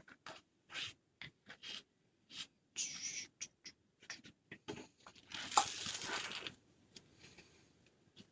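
Hands working craft materials: a run of short rubbing and scratching strokes, with a louder, longer rustle about five and a half seconds in.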